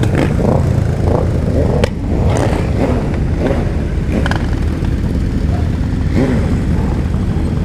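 Several sport motorcycle engines running loudly together in a group, with a few sharp cracks standing out, about two seconds in and again about four seconds in.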